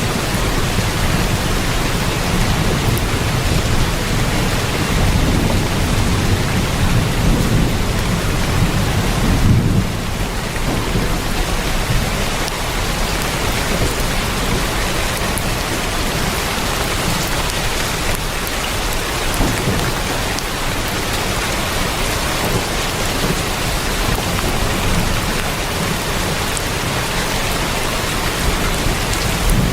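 Heavy rain drumming steadily on a tin roof, with a deep low rumble underneath that is strongest for the first ten seconds or so and then eases.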